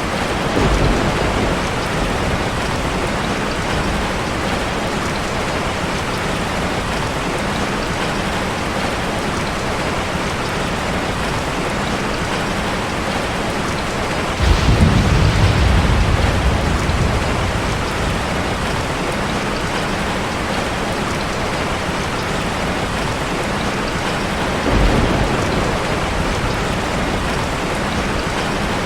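Heavy rain falling steadily on a car, with low rolls of thunder: a short one about a second in, a stronger one about halfway that fades over a few seconds, and a brief one near the end.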